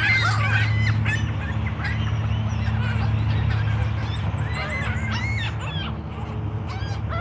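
A group of birds calling and squabbling over food: many short, overlapping chirps and squawks, thickest at the start and again around five seconds in. A steady low hum runs underneath.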